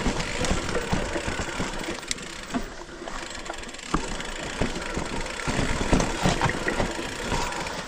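Mountain bike riding over rough, rocky trail, with tyres crunching and the bike rattling and knocking over rocks throughout, under a low rumble of wind on the microphone.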